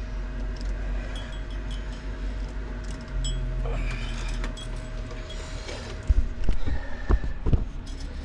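Metal tools clinking and tapping against rusty pool pump fittings, with a few heavy knocks about six to seven and a half seconds in, over a steady low hum.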